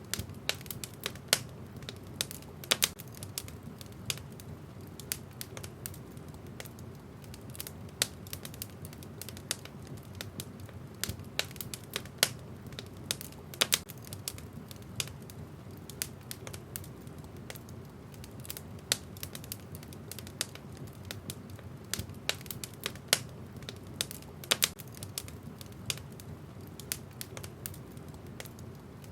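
Wood fire in a fireplace crackling, with irregular sharp pops of burning logs over a steady low rumble of flame.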